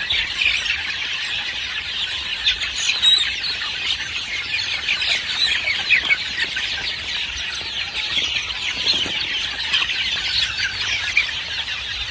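A flock of gamefowl chickens calling, with many short clucks and chirps overlapping continuously.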